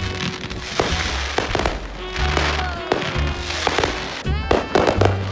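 Fireworks going off in a run of sharp bangs and crackles, with background music playing over them.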